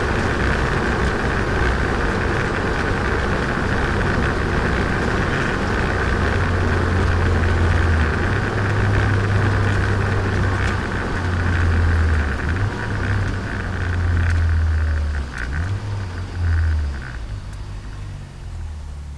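Turbocharged Nissan Micra engine and exhaust under way, a steady drone. From about twelve seconds in the sound wavers and falls away as the car eases off, and it is quieter near the end.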